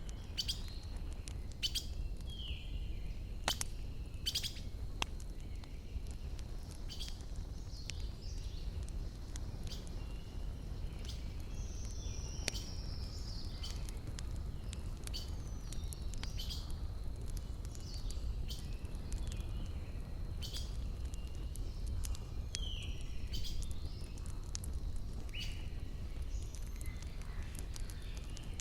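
Wood fire crackling with frequent sharp pops, while small birds chirp in short calls, over a steady low rumble.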